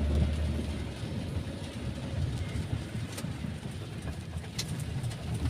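Steady low rumble inside a moving car, from the engine and the tyres on a wet road, with a few faint clicks.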